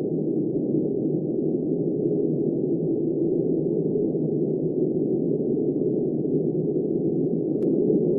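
Snowstorm wind blowing steadily, a deep, muffled rush with nothing high in it, and a faint tick near the end.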